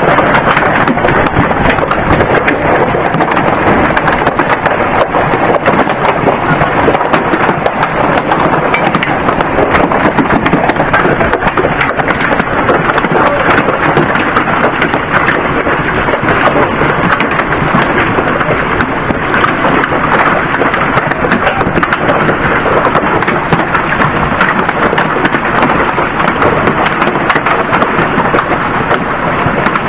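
Hail and heavy rain pelting down hard, a loud, steady hiss of countless rapid small impacts.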